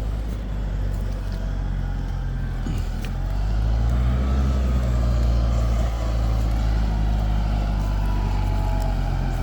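An engine idling steadily with a low hum, getting louder about three and a half seconds in and cutting off suddenly at the very end.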